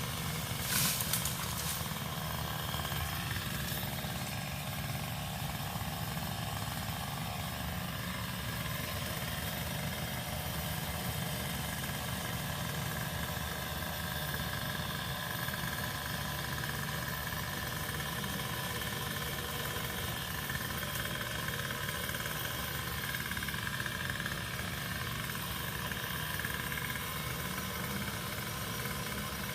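A small engine idling steadily, with a few sharp knocks in the first second.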